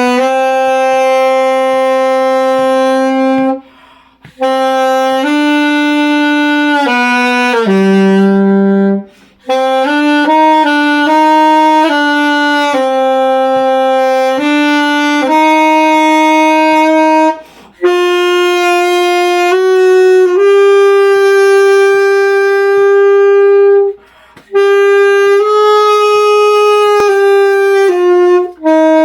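Saxophone playing a slow melody in long, steady held notes, with brief pauses for breath about four, nine, seventeen and twenty-four seconds in.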